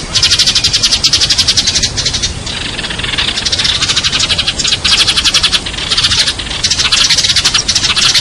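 Sparrows chirping, a dense run of rapid high chirps with a few brief lulls.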